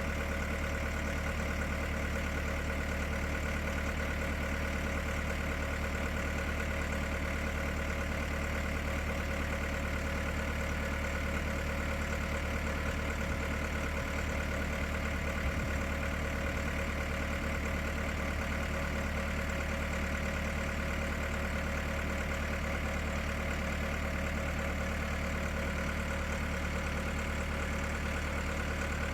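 Engine idling steadily, with no change in speed.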